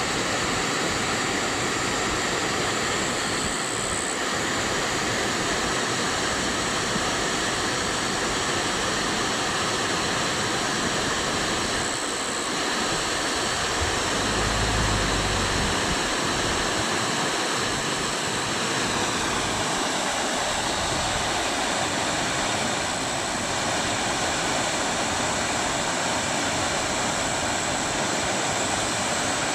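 Waterfall: a steady rush of falling and splashing water. About fifteen seconds in there is a brief low rumble.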